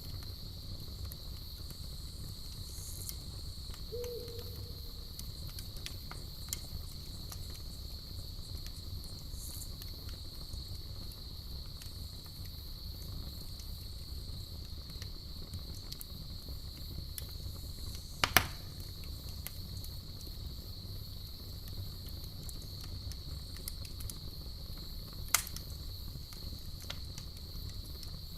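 Campfire crackling with scattered small clicks and two sharp, loud pops, about 18 and 25 seconds in, over a steady high-pitched chirring of crickets.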